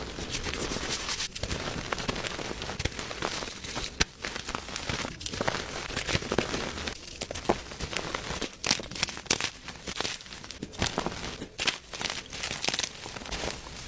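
Gym chalk (magnesium carbonate) being crushed: a dense, irregular crunching and crumbling with many sharp snaps as the chalk breaks apart.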